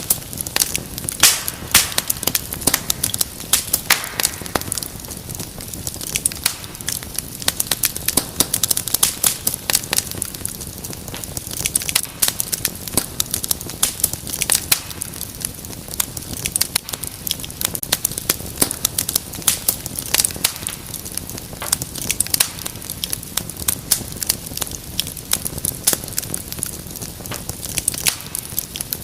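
Wood fire crackling steadily, with many sharp irregular pops and snaps over a low hiss.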